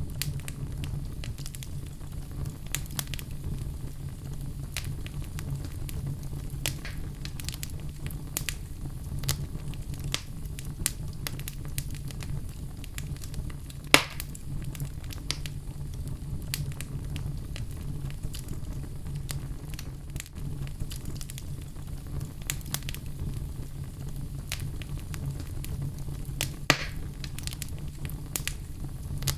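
Wood fire burning in a fireplace, with a steady low rumble and frequent irregular crackles and pops, two of them much louder and sharper, about halfway through and near the end.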